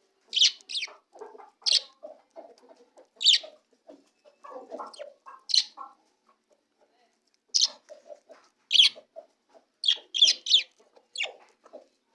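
Budgies chirping: a dozen or so short, sharp, high calls at irregular intervals, several in quick succession near the end, with softer, lower scratchy sounds between them.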